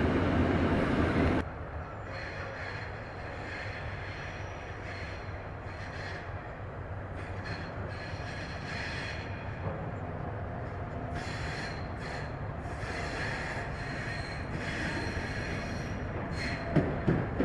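Train rolling on the track, its wheels giving off intermittent high squealing tones over a steady rumble. Near the end come sharp clacks of wheels over rail joints. The louder noise at the very start cuts off abruptly about a second in.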